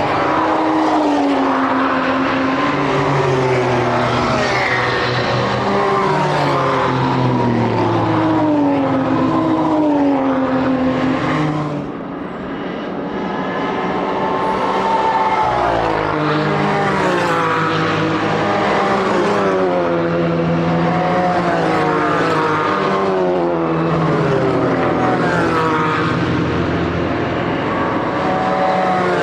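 Race car engines at full throttle passing one after another, pitch climbing through each gear and dropping at every upshift, with a brief lull about twelve seconds in before the next cars arrive.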